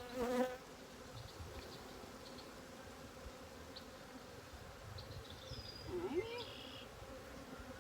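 Honeybees buzzing around an open hive: a steady, faint hum of many bees in flight.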